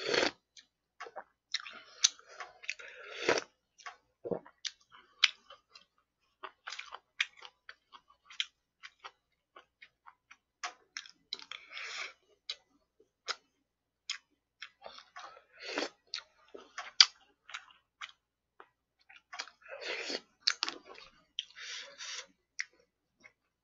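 Close-up chewing of food, with many short, sharp clicks of a spoon scooping from plastic takeout containers.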